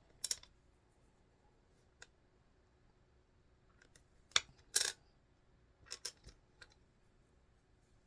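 Scattered light clicks and rustles of small charms and their packaging being handled, about seven in all, the two loudest close together a little past the middle.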